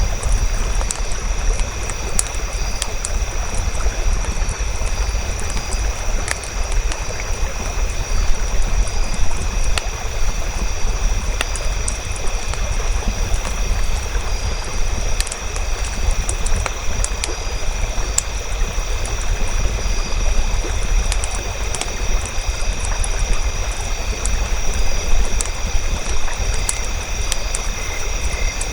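Campfire burning: scattered sharp crackles and pops over a steady low rumble and hiss, with a few faint steady high tones underneath.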